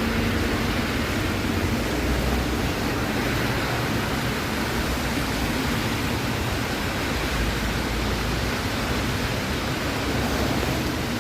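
Steady noise of a wet city street: a constant hiss with a low traffic rumble underneath.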